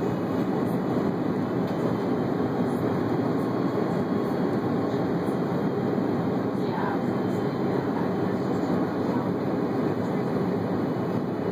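Steady, even rumble of an Airbus A330 airliner heard from inside its cabin.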